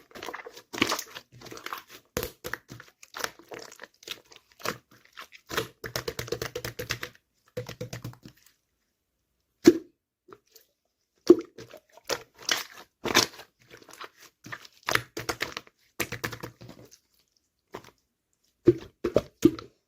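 Close handling sounds: irregular taps and clicks mixed with crinkling and rustling, in uneven runs with short pauses.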